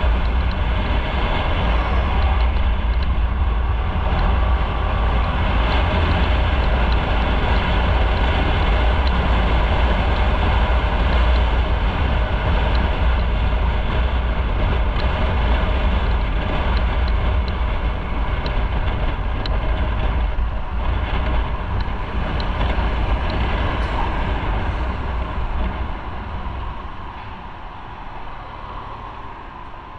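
Riding noise from a motorcycle at road speed: wind rushing over the microphone with a deep rumble, over the running engine. The noise falls away over the last few seconds.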